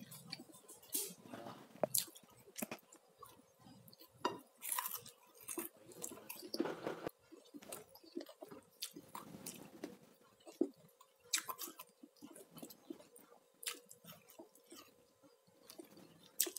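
A person chewing a meal of rice and fried chicken eaten by hand, close to the microphone, with many short, irregular crunches and clicks.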